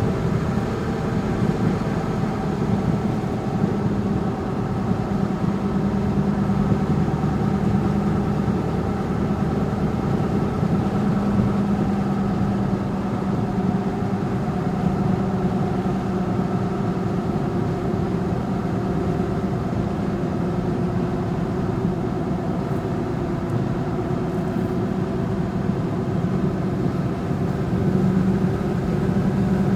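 Motor vehicle engine running steadily while being driven, its pitch drifting slightly up and down.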